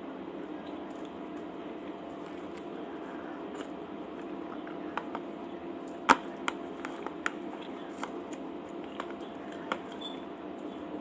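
Eating sounds over a steady background hum: a scatter of short clicks and taps, the sharpest about six seconds in, as food and utensils are handled and chewed.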